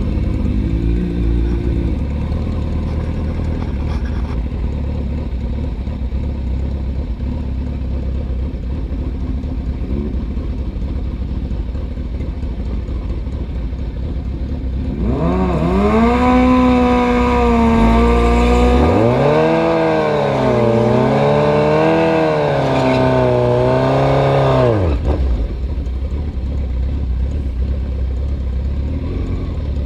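Drag-racing motorcycle engines idling with a low rumble. About halfway through, a bike's engine revs up sharply and runs loud at high revs for about ten seconds, the pitch rising and dipping several times, then stops abruptly and the idling rumble carries on.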